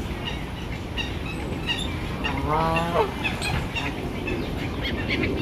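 Waterfowl and small birds calling around a park pond, with many short high chirps over a steady outdoor background. A louder call falls in pitch about two and a half seconds in.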